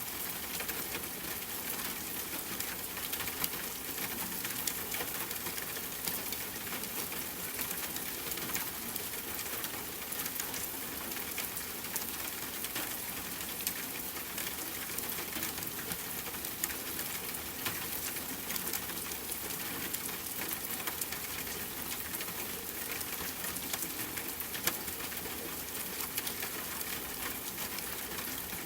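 Steady rain hiss with many small, sharp crackles scattered through it, the crackle and pop of a campfire burning.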